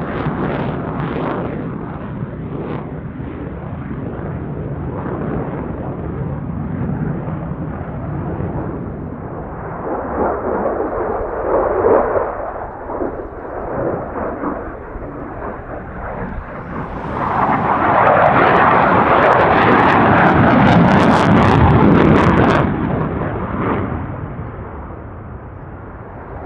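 Jet aircraft engine noise, a steady rumble that swells to its loudest about two-thirds of the way through with sharp crackling as the jet passes close, then fades.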